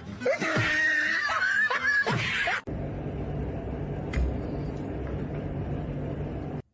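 A person laughing for about two and a half seconds, cut off suddenly, followed by a steady low hum of room noise with one faint tap about four seconds in.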